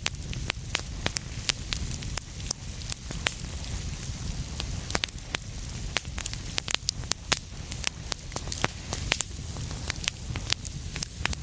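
Wood fire crackling in a fireplace: many sharp, irregular pops and snaps over a low, steady rumble of burning.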